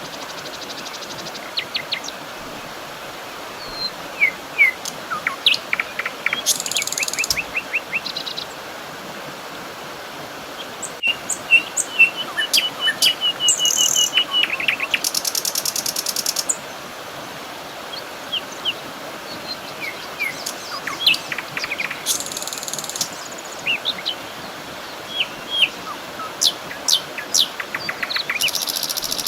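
Several songbirds chirping and singing, with quick trills and whistled notes coming and going over a soft steady background hiss.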